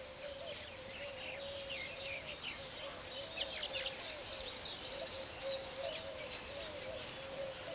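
Weaver birds chirping and chattering: many short, quick high chirps, over a steady low wavering tone.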